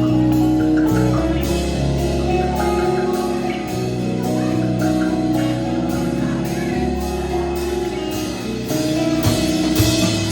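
A band playing an instrumental passage: sustained chords over a steady drum beat, with cymbal strokes about twice a second and a cymbal crash near the end.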